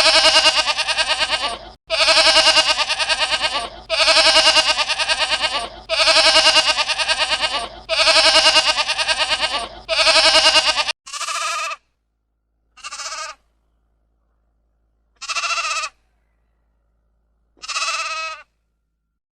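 Bleating: six long quavering calls one after another, then, about eleven seconds in, four shorter calls with pauses of a second or two between them.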